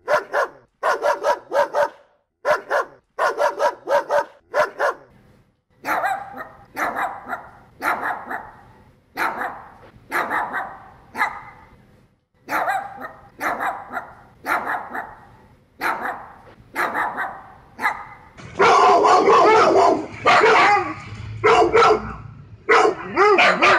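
Dog barking repeatedly. It starts with quick bursts of three or four barks, then gives single barks about one a second with a short echo after each, then from about three-quarters of the way in louder, denser, continuous barking.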